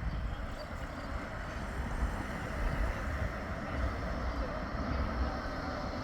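Bombardier Flexity 2 tram running on the track, its noise growing slightly towards the end, with wind buffeting the microphone.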